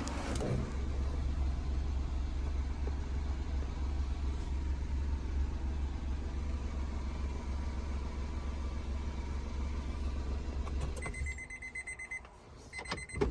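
Honda N-One's small three-cylinder engine idling steadily, then switched off about eleven seconds in. Right after it stops, an electronic warning chime beeps in short repeated tones.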